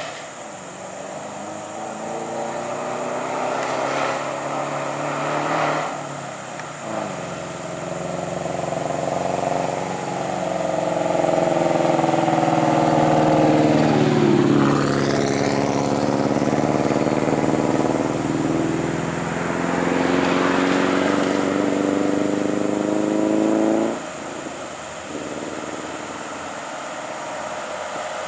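Volvo heavy truck's diesel engine pulling hard under a heavy load as it creeps up a sandy slope. The engine note climbs and falls and is loudest through the middle, then drops off suddenly near the end and carries on more quietly.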